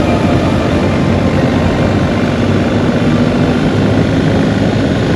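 BMW R 1250 GS Adventure's boxer-twin engine running steadily at riding speed, under heavy wind rush over the microphone.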